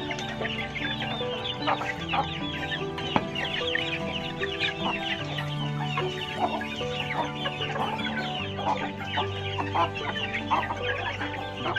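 Chicks cheeping rapidly and continuously, with hens clucking, as the brood feeds on fly larvae.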